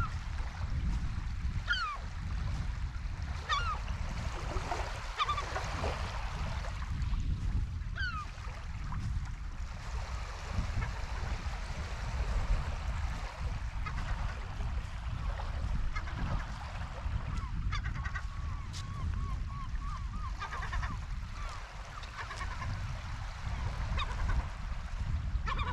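Seagulls calling: short cries that fall in pitch, every second or two, with a quick run of repeated calls about twenty seconds in. Wind rumbles steadily on the microphone underneath.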